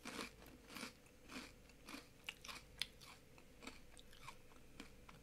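A person chewing a mouthful of crunchy snack chips: faint, repeated crunches about every half second, thinning out toward the end.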